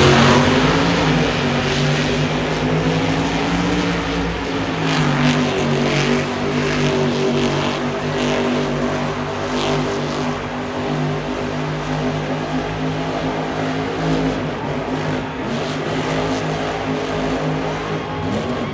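Grave Digger monster truck's supercharged V8 engine running hard through a freestyle skills run, its pitch repeatedly rising and falling as the throttle is worked, with a few short sharp cracks along the way.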